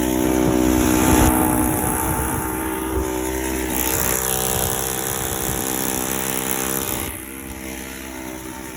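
Weed eater engine driving a friction-drive bicycle, running steadily at a held engine speed; about seven seconds in it gets quieter.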